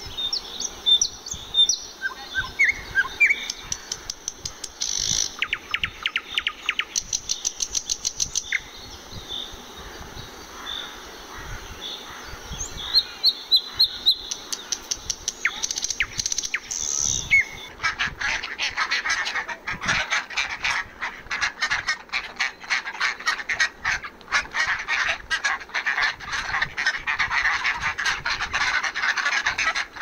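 Common nightingale singing: a varied string of clear whistles, short chirps and fast rattling trills. From about 18 seconds in, this gives way to a dense, continuous chatter of quick calls.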